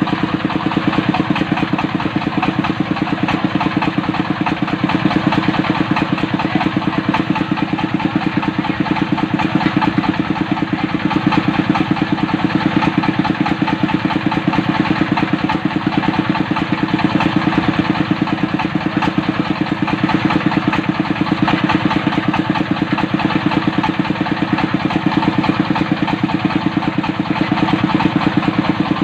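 Diesel engine of a water-well drilling rig running steadily at constant speed.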